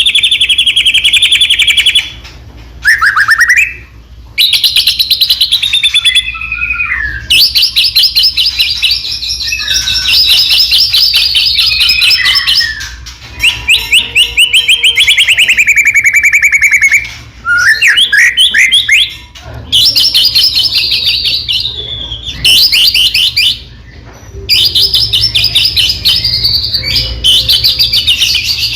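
White-rumped shama (murai batu) singing loudly in full song: long runs of rapid repeated notes and trills, in phrases of a few seconds broken by short pauses.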